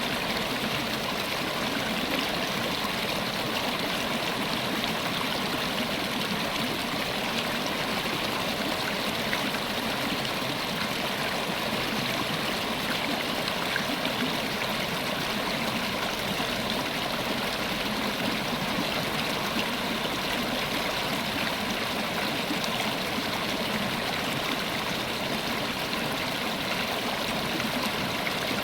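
River water running over rocks, a steady rushing and gurgling flow.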